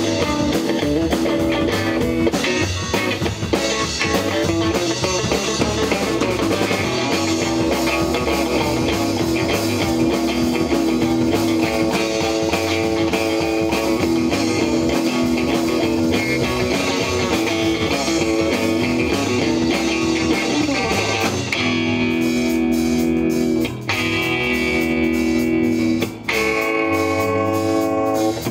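A rock band playing live, with electric guitar and drum kit. About 21 seconds in, the full band drops away, leaving sustained electric guitar chords with short breaks between them.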